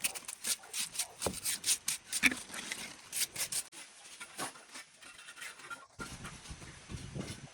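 Irregular run of short scraping and rubbing strokes, with a quieter pause in the middle.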